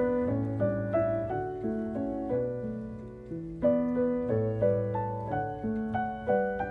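Background piano music: gentle notes and chords struck one after another, each fading away slowly.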